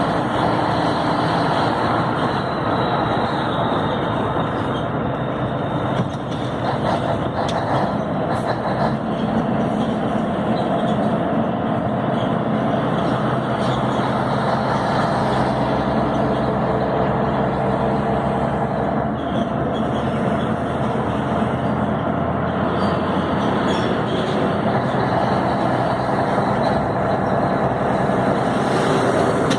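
Scania 112 truck's six-cylinder diesel engine running steadily under way, with road noise.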